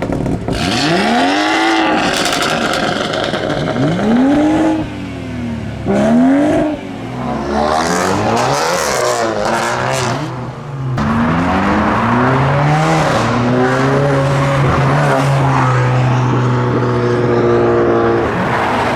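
BMW M140i turbocharged straight-six being revved while stationary: repeated blips that rise and fall. After a short gap in the middle, the revs climb in steps and are held steady near the end.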